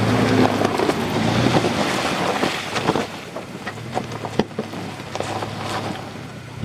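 Off-road vehicle's engine running low while it drives through shallow river water, with a steady wash of splashing. About three seconds in the splashing eases and scattered sharp knocks and splashes follow.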